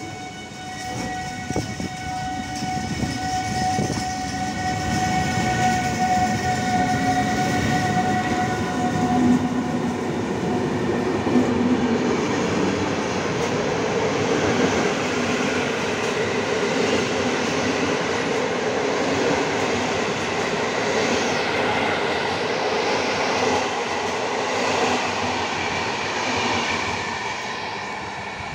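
Locomotive-hauled passenger train passing close by a station platform. A steady high tone with several overtones sounds over the first eight seconds or so, then the rumble and wheel noise of the coaches going by, fading near the end.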